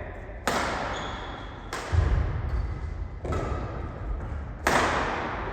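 Badminton rally: four sharp racket strikes on the shuttlecock, about one every second and a half, each echoing briefly, with thuds of footfalls and short shoe squeaks on the court between them.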